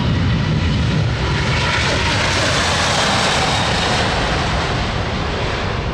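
Boeing 787-9 Dreamliner's Rolls-Royce turbofan engines as the airliner passes low: a steady jet rush that swells to its loudest about three seconds in, then eases slightly.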